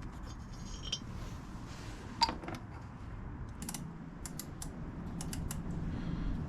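Light metal clicks and taps of measuring tools being handled while gauging an Ariel motorcycle cylinder's bore: one sharper tap about two seconds in, then a quick run of small clicks.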